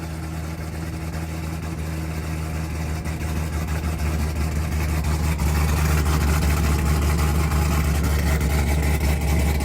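Suburban's engine idling through a new MBRP aftermarket exhaust shortly after a cold start, a steady low drone. It gets somewhat louder about halfway through.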